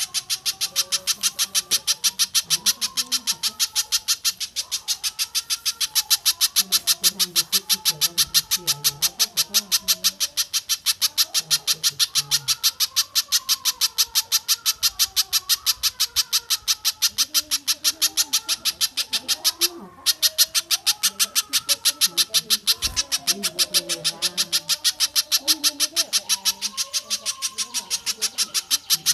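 Recorded bird calls: a fast, even series of sharp high-pitched notes, several a second, with a brief break about two-thirds through, over quieter wavering calls lower in pitch.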